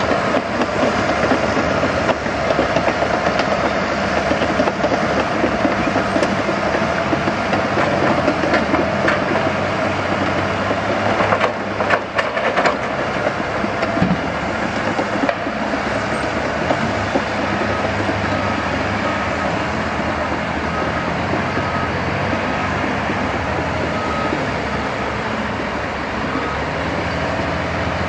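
Heavy diesel construction machinery and trucks running under load, with a few sharp metallic clanks near the middle. In the second half, a reversing alarm beeps about once a second.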